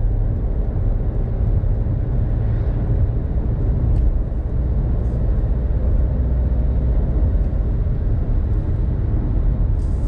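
In-cabin engine and road noise of a Renault Clio V's 1.0 TCe three-cylinder turbo petrol engine pulling hard in fifth gear from about 90 to past 100 km/h: a steady low drone over tyre roar. There is a brief hiss right at the end.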